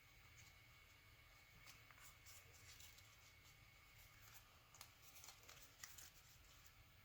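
Very faint paper rustling and creasing, with scattered soft ticks as a sheet of origami paper is handled and folded. A faint steady high whine underneath stops about four seconds in.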